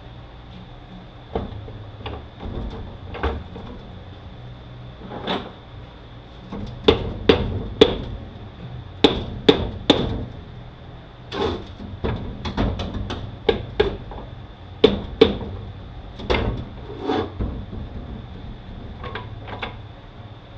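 Irregular hammer blows on a Mazda six-speed manual transmission part that is stuck and won't come free, about two dozen sharp metallic knocks. The hardest strikes come in the middle stretch, and the taps thin out near the end.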